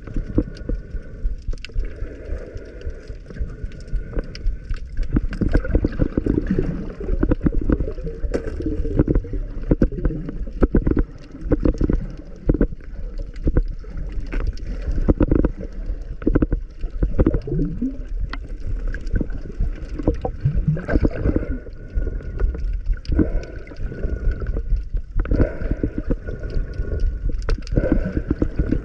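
Underwater sound of a dive: water gurgling and bubbling around the camera, with many small clicks and knocks over a low rumble.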